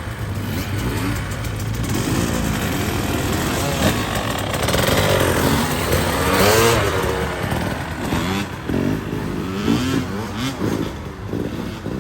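KTM 65 SX two-stroke dirt bike engine revving, its pitch rising and falling again and again as the throttle is worked and the bike shifts.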